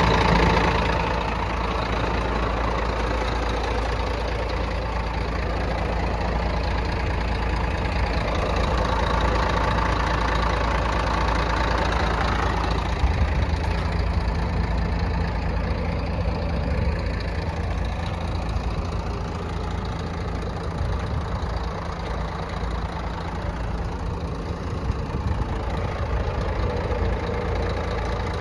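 Scania P124L 420 tractor unit's straight-six diesel idling steadily, dropping slightly in level about a second in.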